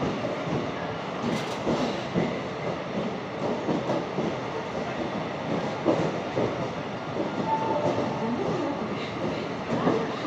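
Passenger train moving slowly through a station, heard from inside the coach: a continuous rolling rumble with irregular clatter and knocks from the wheels and carriage.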